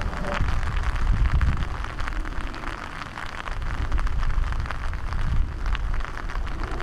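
Rain falling on wet pavement and surroundings: a dense patter of drop impacts over a steady hiss, with a low rumble underneath.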